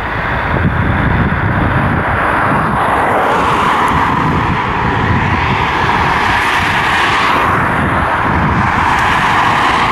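Container freight train's wagons rolling past on the rails, a steady rumble and rush of wheels on track.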